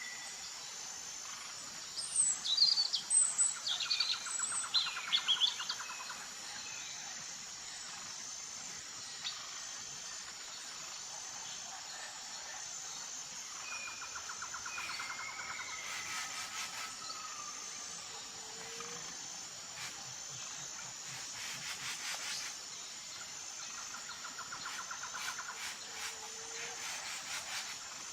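Birds chirping and calling, with a burst of loud, quick chirps between about two and six seconds in and softer trills after, over a steady high-pitched pulsing buzz.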